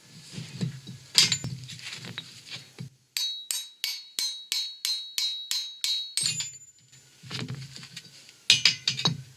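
Metal parts and tools clinking and clanking on a hydraulic shop press as a wheel bearing is pressed out of the hub carrier. About three seconds in comes a quick, even run of about a dozen sharp, ringing metal clicks, roughly four a second, followed by more knocks and clanks.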